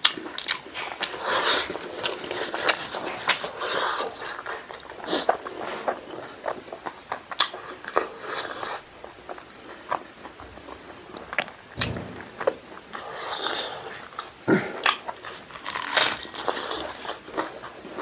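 A person chewing and biting fried chicken and rice, close to the microphone, with many short sharp mouth clicks.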